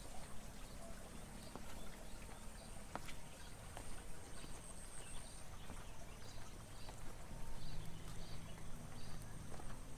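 Walking footsteps on a rice-terrace path, about two steps a second, over a steady thin high-pitched whine of outdoor ambience.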